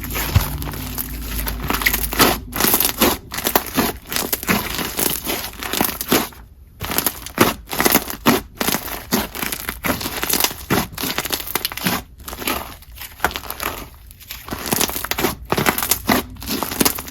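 Slushy slime with beads being squished, stretched and pressed by hand, making a dense run of irregular crackles, crunches and small pops.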